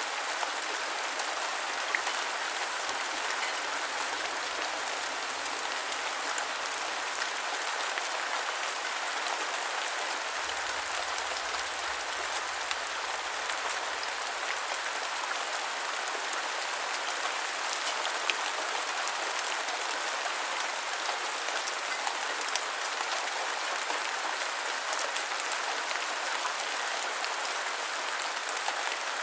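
Steady rain falling on a surface, a constant hiss with scattered sharp drop ticks.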